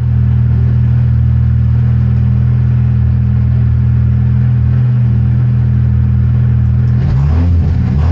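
BMW 1M race car's engine idling steadily, heard from inside the cabin. About seven seconds in, the revs begin to rise and fall.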